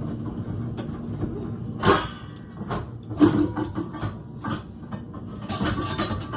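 Kitchen handling noises: scattered knocks and clicks, the loudest about two seconds and three seconds in, over a steady low hum.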